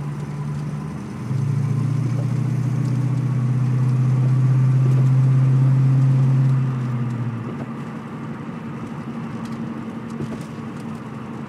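A low, steady droning hum from underneath a 1991 Ford Mustang 5.0 while driving slowly. It comes in about a second in, swells, and fades away after about six seconds. This is the unexplained vibration noise that has persisted despite new U-joints, all four wheel bearings, and motor and transmission mounts.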